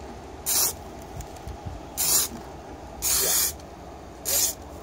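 Short hissing bursts of spray, four of them, the third a little longer than the others.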